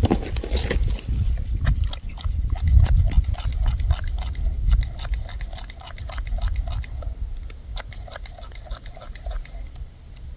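Wacaco Picopresso hand espresso maker being pumped to start the extraction: a run of short clicks and brief squeaky strokes as hot water is pushed into the coffee for pre-infusion, thinning out after about six seconds, over a low rumble.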